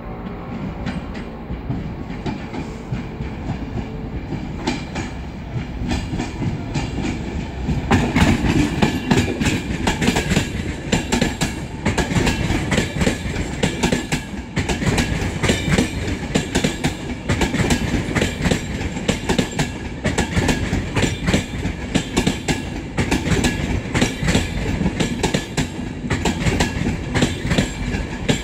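A long express passenger train rolling past along the platform, its wheels clicking and clattering over rail joints and points under a steady rumble. It gets louder about eight seconds in as the coaches come alongside.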